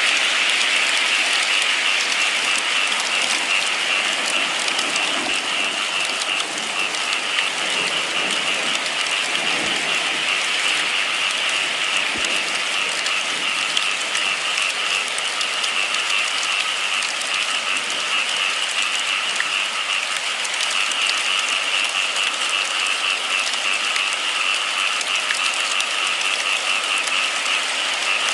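Steady rain falling, an even hiss of drops that holds at the same level throughout, with a few faint low knocks.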